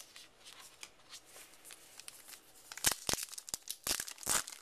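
Wrapper of a baseball trading card pack crinkling and being torn open: faint rustling, then a run of sharp crackles starting about three seconds in.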